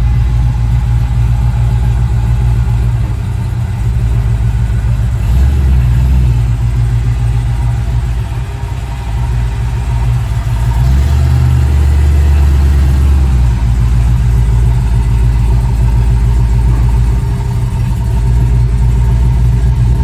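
A Chevy car's engine running under a heavy low rumble as it drives, swelling louder twice as the engine pulls.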